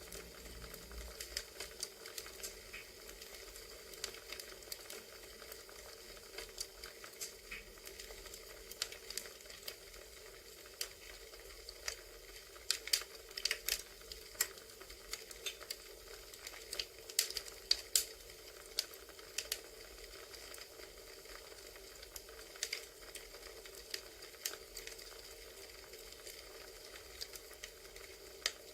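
Recorded campfire ambience: burning wood crackling and popping irregularly over a steady low hiss, with a thicker run of pops about halfway through.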